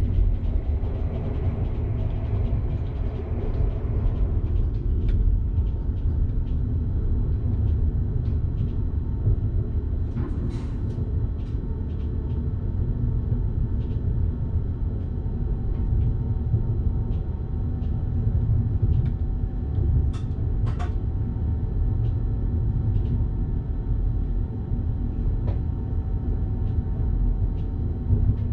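Electric passenger train running along the track, heard from the driver's cab: a steady low rumble, with a few sharp clicks about ten and twenty seconds in.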